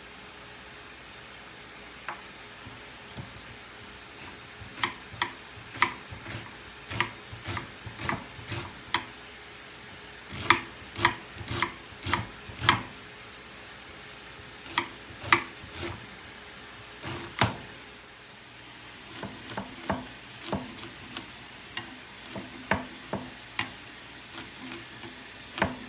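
Knife chopping onions on a cutting board: sharp knocks in quick runs with short pauses between, over a faint steady hum.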